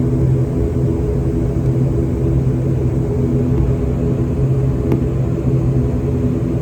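Airliner engines running steadily, heard from inside the passenger cabin as the aircraft taxis after landing: a low rumble carrying several steady hum tones. A single faint click comes about five seconds in.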